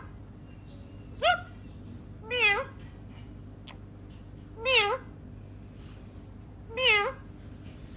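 Four short meows, one to two seconds apart, each with a wavering pitch; the first is a brief rising chirp.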